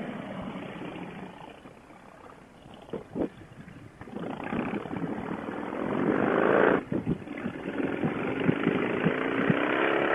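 V-twin cruiser motorcycle engine pulling away, rising in pitch as it accelerates over the last few seconds.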